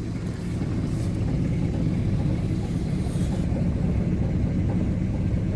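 1983 Pontiac Firebird engine idling steadily with a low rumble, warming up after a cold start.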